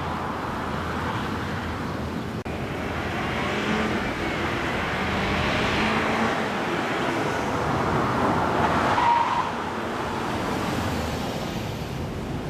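2013 BMW 528i xDrive being driven, a steady run of road and engine noise that swells up and falls back twice, with a brief break about two and a half seconds in.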